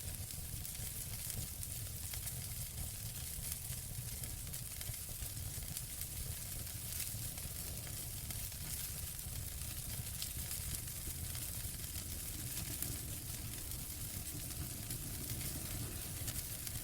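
Wood fire burning in a fireplace: a steady hiss with many small crackles and pops scattered throughout, over a low rumble.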